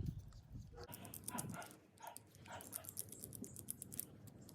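Faint scattered clicks and light taps of a small plastic RC truck's screws and parts being worked loose and handled, with a few short faint squeaky sounds about a second in.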